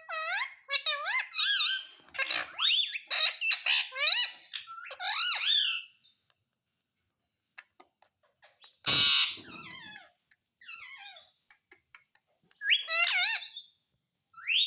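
Pet parrot calling and chattering: a quick run of squeaky calls that glide up and down in pitch for about six seconds, a short harsh noisy burst about nine seconds in, then more squeaky calls near the end.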